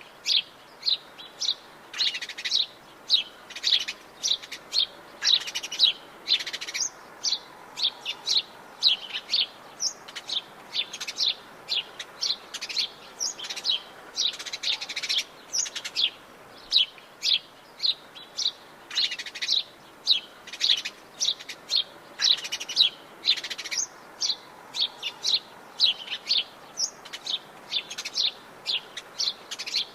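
Birds chirping in Atlantic Forest, a steady chorus of many short, high calls several times a second.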